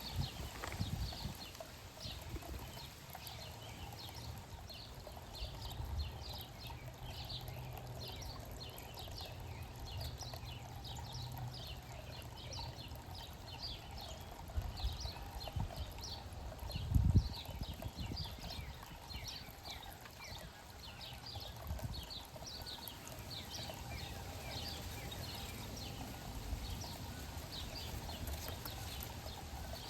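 Backyard birds giving many short, quick chirps over a low rumble, with one louder low thump a little past the middle.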